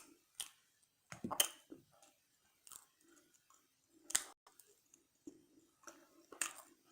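Close-miked chewing of french fries: scattered short crunches and wet mouth clicks, the sharpest about a second and a half and four seconds in, with soft chewing between them.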